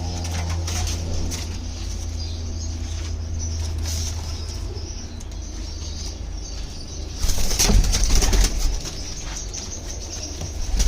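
Pigeons cooing, then a loud burst of wing flapping lasting about a second and a half, a little after seven seconds in.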